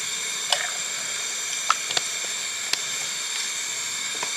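Portable gas canister camp stove burning with a steady hiss while it heats water. A few short, sharp ticks sound over it.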